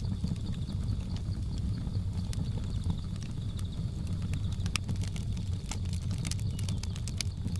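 Wood fire crackling, with irregular sharp pops over a steady low rumble; the pops come thicker in the second half. A faint steady high insect drone runs underneath.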